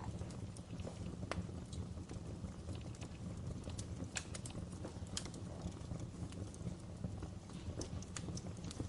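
Fireplace fire crackling: irregular sharp pops and snaps over a low steady rumble of the flames.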